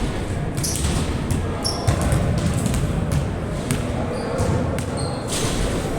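A basketball bouncing on a court during a game, a series of knocks over a steady background of crowd and room noise, with a few short high squeaks.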